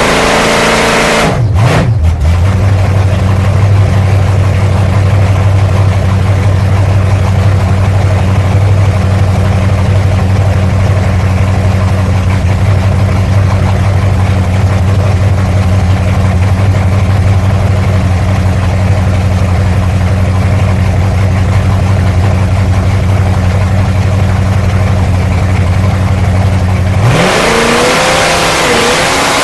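Drag car's engine running at a steady, even speed, with a brief break about a second and a half in. Near the end the pitch starts to rise and wander as it is revved.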